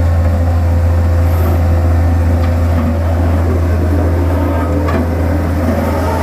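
Diesel engine of heavy road-repair machinery running steadily at close range: a loud, even, low drone with a constant tone above it.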